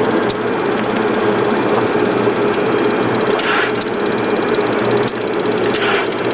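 Flight-deck noise of a Boeing 737-200 on final approach: a steady hum over rushing air. Two brief hisses come about three and a half and six seconds in.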